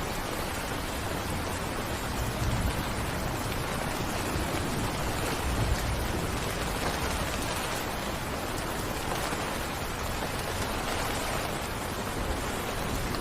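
Steady rain falling, an even hiss of drops, with a couple of brief low thumps about two and a half and six seconds in.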